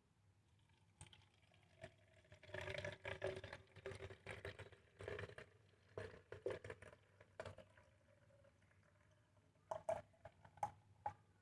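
Quick irregular clicks and scrapes of a spoon against a container as a millet seed feed mix is spooned in little by little, with a faint ringing from the container. The strokes come thick for several seconds, then a few separate taps near the end.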